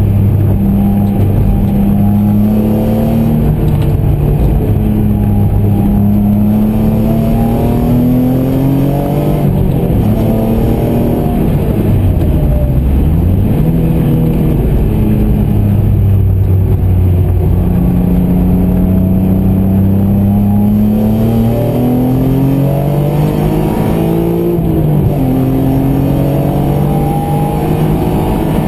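BMW M3 engine heard from inside the cabin at track pace. Its pitch climbs over several seconds under acceleration, then drops sharply a few times as the car slows and changes gear, and climbs again.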